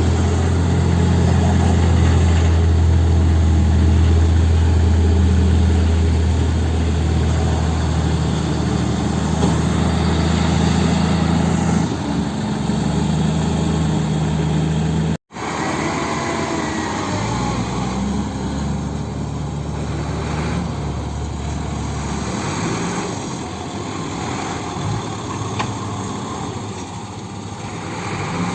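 Heavy diesel engine running steadily, with a strong low hum. About halfway through there is an abrupt cut to a lighter, less bassy engine sound.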